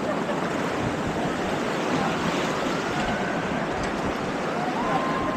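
Rushing whitewater of river rapids, a steady even rush of water. Faint thin gliding tones come through it about two seconds in and again near the end.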